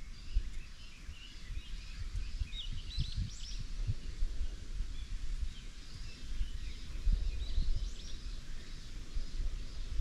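Small birds chirping and calling in short bursts, busiest about three seconds in and again near eight seconds, over a low, irregular rumble.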